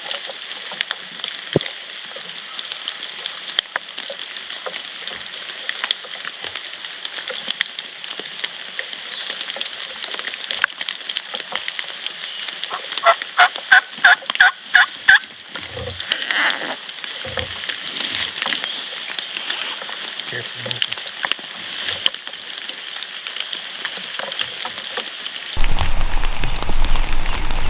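Wild turkey calling: a quick run of about eight yelps, a few per second, near the middle, over steady rain hiss and dripping. Near the end the rain gets louder.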